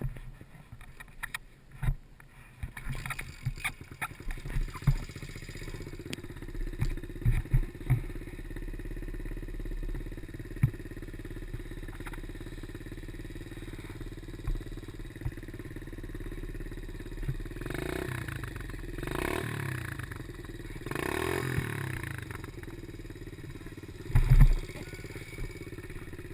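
Small 90cc pit bike engine running on a dirt track, with clattering knocks over the first several seconds and the engine note rising and falling a few times after the middle. A heavier thump comes near the end.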